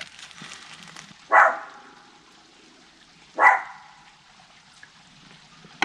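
A dog barks twice, two loud single barks about two seconds apart.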